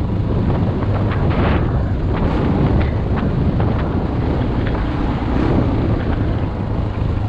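Dual-sport motorcycle engine running steadily while riding, under heavy wind noise on the helmet-mounted microphone, with scattered clicks and knocks.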